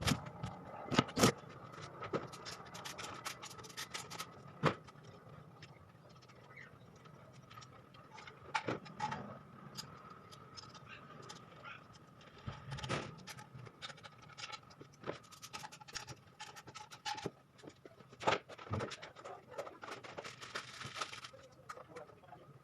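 Irregular clicks, knocks and scraping of hands handling and fitting a replacement engine control unit (ECU) and its wiring, over a faint steady high tone.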